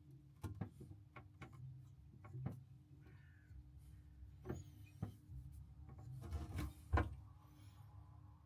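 Scattered clicks and knocks of hand tools and pipework being handled during plumbing work, with a few short scraping sounds and a faint steady hum underneath.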